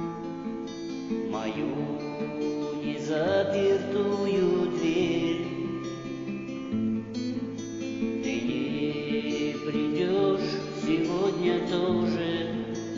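Song introduction on strummed acoustic guitar, with the bass notes of the chords changing every second or two and a melody of sliding notes played over the top.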